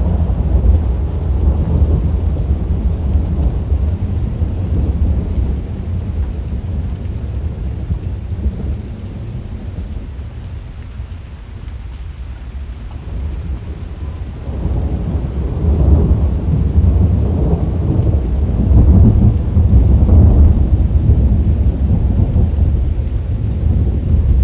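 Rolling thunder rumbling continuously and deep. It eases off about halfway through, then builds again to a louder peak near the end.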